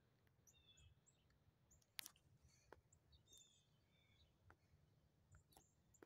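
Near silence, with faint bird chirps scattered throughout and a few soft clicks, the loudest about two seconds in.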